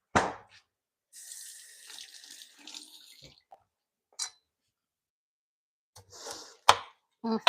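Water running from a tap for about two seconds, between a sharp knock at the start and a few knocks and clatters near the end.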